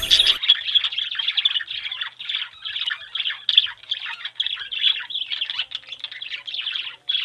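Songbirds chirping: a dense run of short, high chirps in quick succession, with a brief pause near the end.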